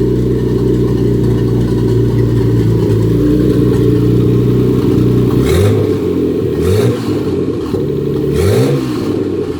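Nissan Stagea 260RS Autech's RB26DETT twin-turbo straight-six idling steadily on its first start after an engine-out refresh, then blipped three times in the second half, each rev rising and falling back to idle.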